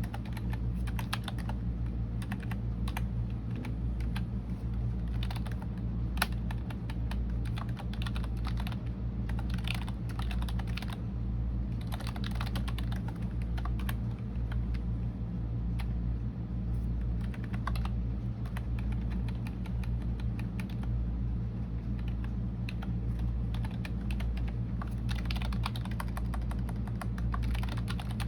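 Typing on a computer keyboard: a continuous, uneven stream of keystroke clicks, thicker in some stretches than others, over a steady low hum.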